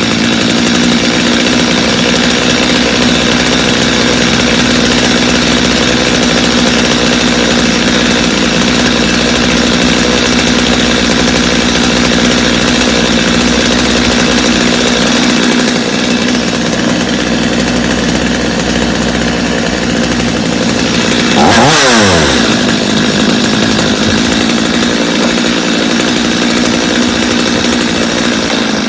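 Freshly reassembled Stihl two-stroke chainsaw running steadily, needing little carburettor adjustment, with one brief swing in engine speed about three-quarters of the way through.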